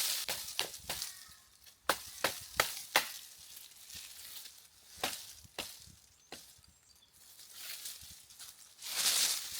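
An irregular series of about ten sharp cracks and knocks, loudest in the first three seconds, mixed with rustling that swells near the end.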